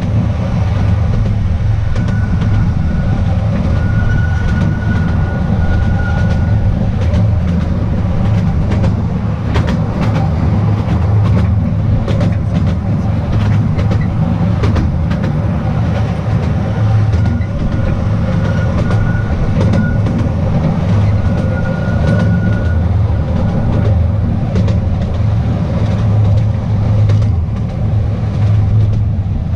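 The Artouste narrow-gauge train running: a steady, loud rumble of the cars with the clickety-clack of wheels over the track. A thin, high squeal comes and goes twice, a few seconds each time.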